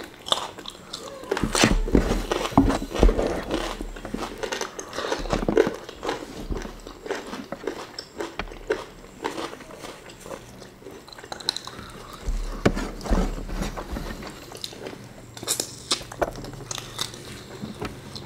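Two people chewing and biting through a meal of fried chicken, rice and raw vegetables eaten by hand, with irregular crunchy bites.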